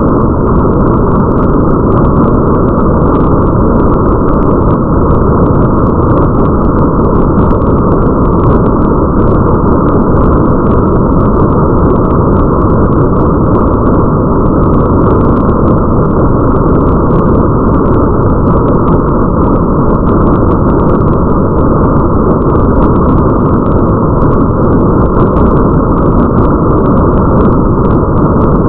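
Steady, muffled rain ambience: a constant deep rumbling wash with no high hiss, flecked with faint scattered ticks of drops.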